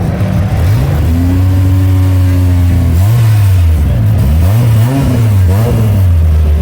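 Car engine being revved: the revs climb and hold for about two seconds, then it is blipped up and down three or four times.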